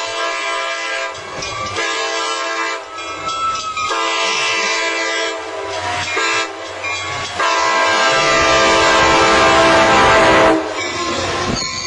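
Horn of an arriving Altamont Corridor Express commuter train sounding in several blasts. The last blast is the longest and loudest and cuts off sharply a little before the end, over the rumble of the train's approach.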